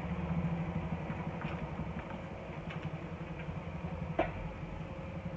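Car engine idling steadily with a low rumble, with a few light clicks and one sharp click about four seconds in.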